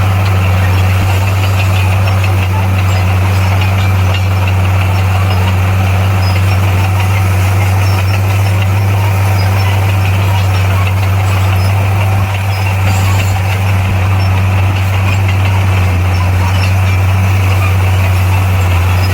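Bulldozer's diesel engine running steadily with a deep, even drone, dipping briefly about twelve seconds in.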